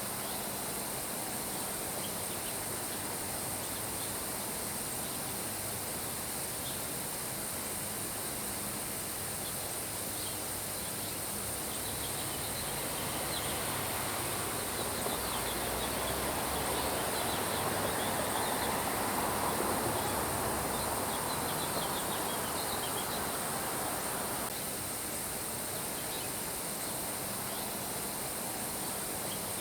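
Steady rain hiss with faint, quick high chirping running through it. A louder rush of noise swells up in the middle and cuts off suddenly, as at an edit.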